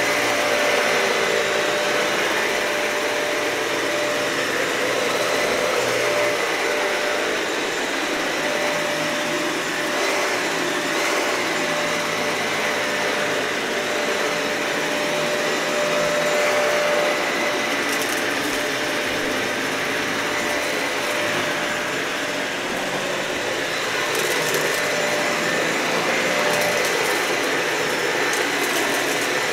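Dyson vacuum cleaner running steadily over a matted, dirty carpet, a constant motor whine over airflow noise, with a few short crackles in the last third.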